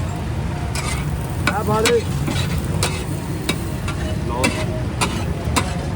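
Daal and egg tikkis frying in oil, with a metal spatula stirring and clinking sharply against the pan again and again.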